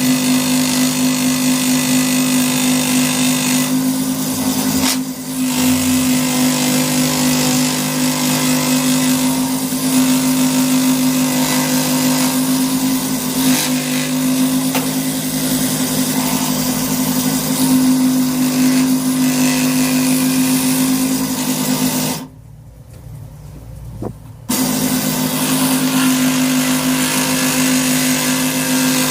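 A power tool's electric motor running steadily on wood, with a constant hum, and a break of about two seconds near the end.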